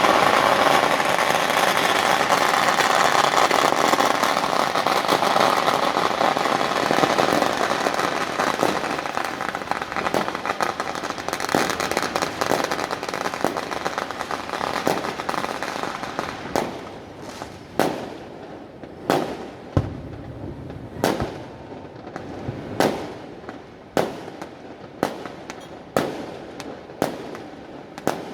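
Firecrackers and fireworks going off in the street. A long string of rapid crackling dies down after about fifteen seconds, then separate loud bangs follow every one to two seconds, each trailing off briefly.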